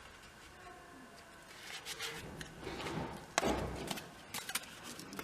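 Handling sounds of objects being moved: scattered clicks and scrapes, with one louder knock about three and a half seconds in.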